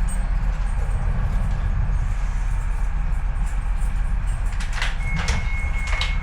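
Docklands Light Railway train running, heard from inside the carriage: a steady low rumble of wheels on track. A few sharp clicks come near the end, and a thin steady high squeal starts about five seconds in as the train slows for the next station.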